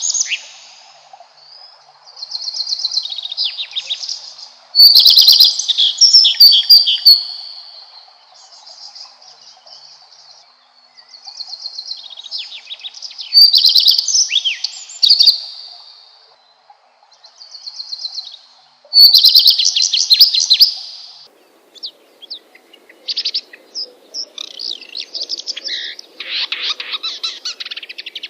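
Songbird singing in the wild: high trilled phrases about two seconds long, repeated every few seconds with quieter twitters between. About 21 seconds in, the background changes and the song turns into quicker, scattered short notes, as from another bird or another recording.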